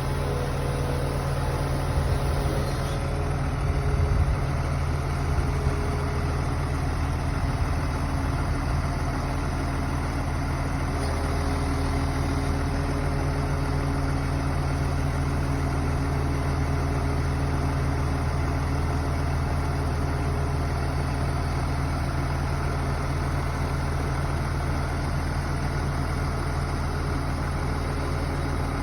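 A truck crane's diesel engine idling steadily, with a few brief knocks in the first several seconds.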